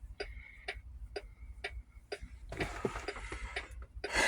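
Steady ticking of a truck's hazard or turn-signal flasher, about two ticks a second, over a low steady rumble. A short breathy hiss comes a little past halfway.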